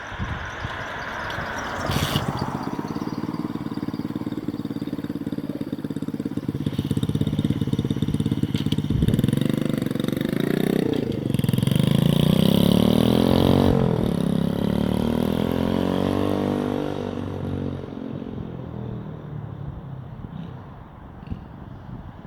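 X-Pro X26 125cc pit bike's single-cylinder four-stroke engine revving as the bike accelerates through its four-speed manual gearbox. The pitch climbs and falls back at each shift, is loudest in the middle, then fades as the bike moves off.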